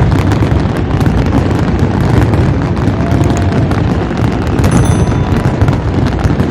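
Fireworks going off in a dense, continuous barrage of overlapping loud bangs and booms.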